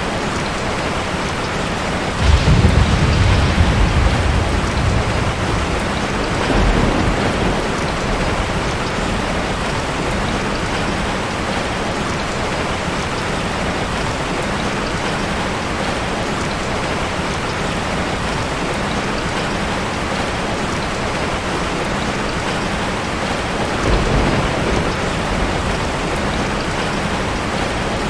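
Ocean surf: a steady hiss of breaking water, with a low rumble about two seconds in that fades over a few seconds, and weaker surges around seven seconds and near the end.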